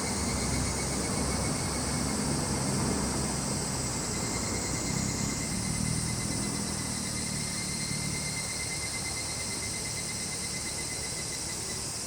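Summer chorus of cicadas and crickets: a steady high-pitched drone with a faint, fast-pulsing chirp beneath it. A low distant rumble, like passing traffic, fades out about two-thirds of the way through.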